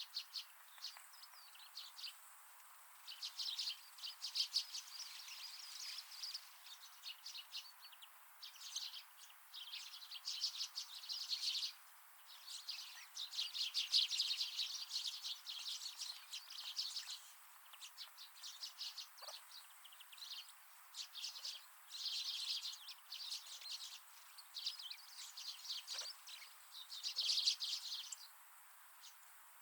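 Wild winter birds chirping and twittering, many quick high notes coming in bouts of a few seconds with short lulls between.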